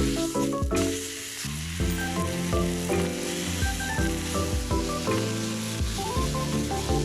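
Chicken steak frying in a pan, a steady sizzle throughout, under background music with a melody of held notes.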